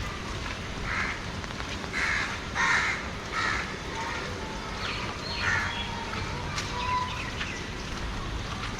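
Crows cawing, several harsh caws in the first few seconds and one more about halfway through, over steady low background noise.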